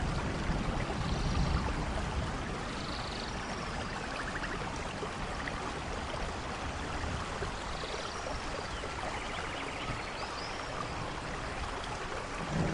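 Steady rainforest rain, with a low thunder rumble dying away over the first couple of seconds. Faint short chirps and trills of forest animals come through the rain now and then.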